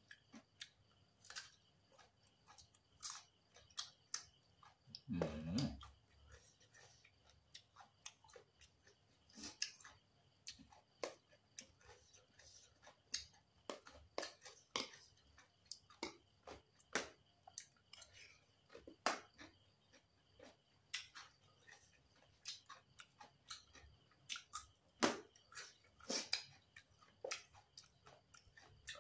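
Close-up chewing of green papaya salad: irregular wet mouth clicks and smacks. There is a brief hum from the eater about five seconds in.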